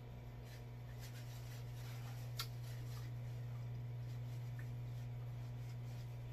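Faint mouth and handling sounds of someone eating pizza crust: soft chewing clicks and light rustles, with one sharper click about two and a half seconds in, over a steady low hum.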